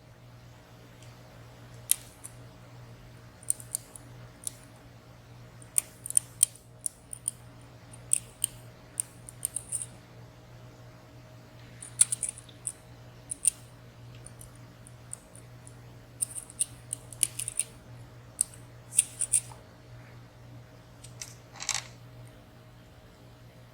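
Lock picks clicking and scraping in the keyway of a WSW W10 padlock as its pins and sliders are worked: irregular short sharp clicks, some in quick clusters, with a slightly longer scrape near the end.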